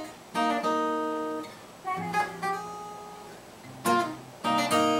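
Acoustic guitar strumming a song intro: several chords struck in turn and left to ring between strums.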